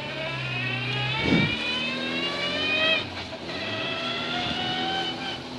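Škoda Favorit rally car's four-cylinder engine heard from inside the cockpit, pulling up through the revs, dropping in pitch about three seconds in at a gear change, then climbing again. A dull thump about a second in.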